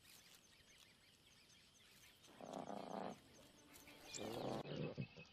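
Lions growling: two short, rough calls about a second apart, the first a little past the middle and the second near the end, over faint high chirping of insects or birds.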